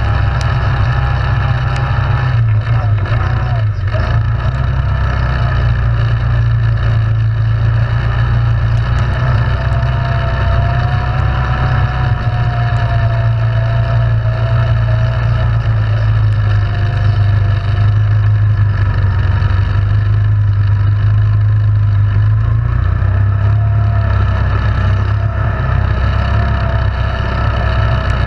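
ATV engine running at a steady, loud drone as the machine is ridden, with a wavering higher whine riding over it.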